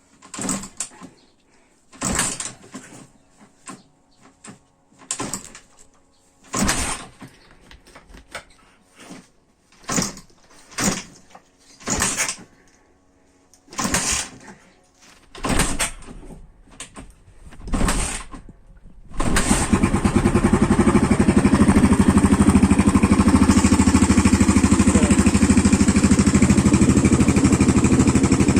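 Irbis TTR 250's single-cylinder four-stroke engine, its cylinder and piston freshly replaced, being kick-started about a dozen times without catching, each kick a separate thump every one to two seconds. About two-thirds of the way in it fires and settles into steady running.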